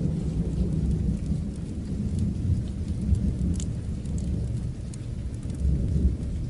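Steady rain with a long, low rumble of distant thunder, and scattered sharp ticks on top.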